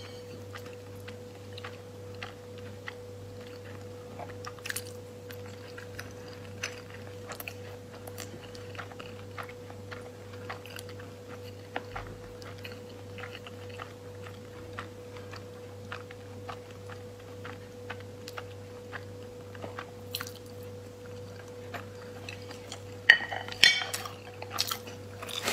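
Eating salmon sushi and broccoli: scattered small clicks of chewing and of chopsticks against the plate, over a steady low hum. A louder, denser clatter comes near the end.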